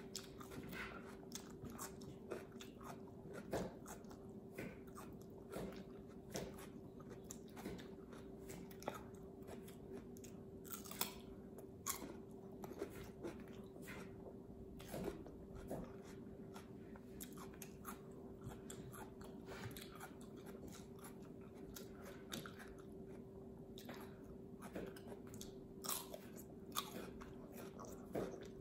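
Close-up chewing of raw cucumber spread with peanut butter: irregular crunchy bites and wet chewing clicks, over a faint steady hum.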